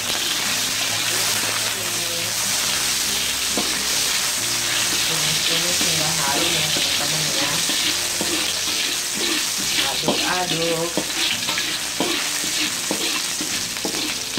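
Sliced green onions sizzling in hot oil in a wok, stirred with a spatula that scrapes across the pan every second or so.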